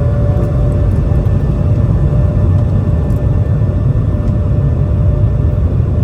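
Airbus A220-300's Pratt & Whitney PW1500G geared turbofan engines running loud: a deep rumble with a steady whine on top.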